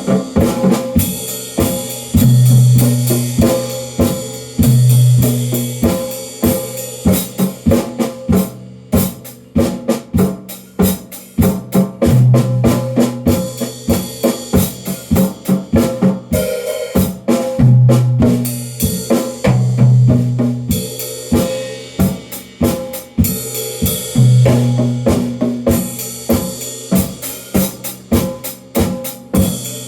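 A drum kit being played freely: a dense, fast run of snare and tom hits under cymbal wash, with several held low notes about a second long.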